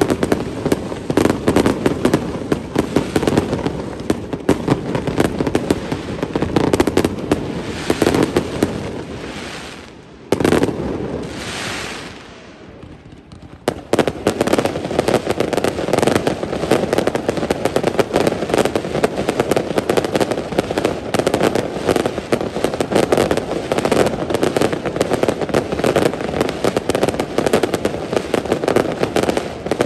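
Fireworks display: a dense barrage of rapid crackling bangs over a steady low rumble. The firing thins out about ten seconds in, nearly stops for a couple of seconds, then comes back just as dense about fourteen seconds in.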